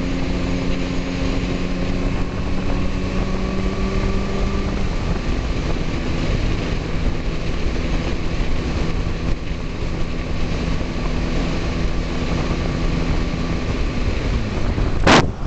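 Motorcycle engine running steadily at cruising speed with wind noise on the microphone, its note dipping about five seconds in. A single sharp knock near the end.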